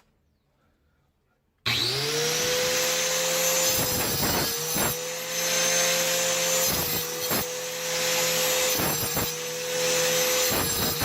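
Angle grinder starting about a second and a half in, spinning up to a steady high whine. The whine is briefly disturbed and dips several times.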